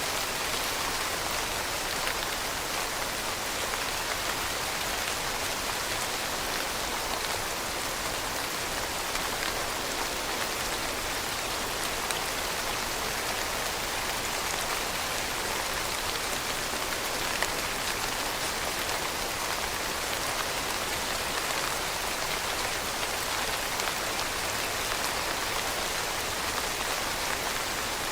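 Steady rain falling, a dense even hiss of drops with faint individual patters.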